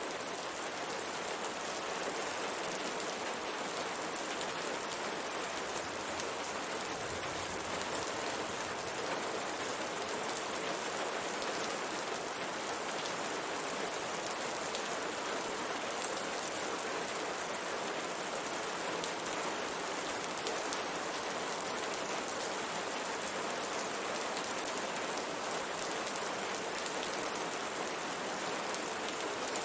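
Steady rain falling and pattering on a window pane, an even hiss with fine drop ticks.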